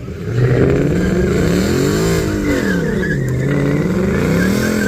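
A vehicle's engine revving hard during a burnout, with a squeal of spinning tires over it. It comes in about half a second in, climbs in pitch to a peak about two seconds in, drops back, and climbs again near the end.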